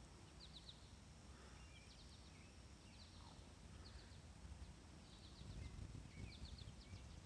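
Faint songbird chirps: short clusters of quick high notes recurring every second or so, over a low outdoor rumble.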